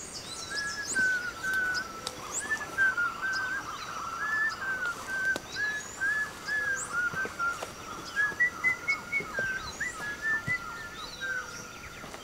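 Forest ambience of many birds chirping, with quick short notes repeating all through and higher chirps above them. Light crunches of footsteps on the forest floor sound now and then.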